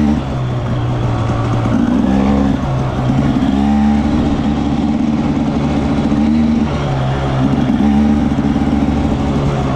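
Husqvarna TE300 300cc single-cylinder two-stroke enduro motorcycle engine being ridden, heard close up from the bike, the throttle opened and closed repeatedly so the revs rise and drop several times.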